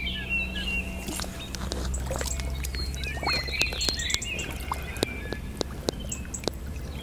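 Small birds chirping in short, repeated calls, with scattered sharp clicks and knocks over a low steady hum.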